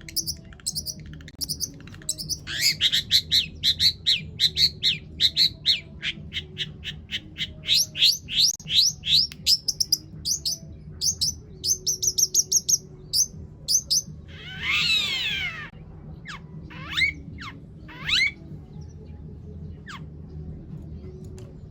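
Long-tailed shrike (cendet) singing a fast, varied run of short repeated chirps and trills laced with mimicked calls. About two-thirds of the way through there is one harsh rasping squawk, then a few downward-sweeping notes, and the song thins out near the end.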